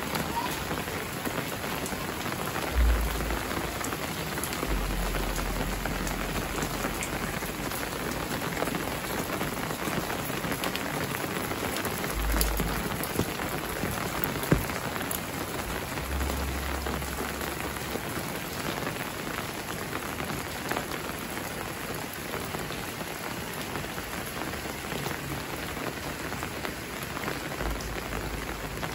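Steady rain falling on a wet road, an even hiss with scattered sharp drop clicks and a few brief low thumps.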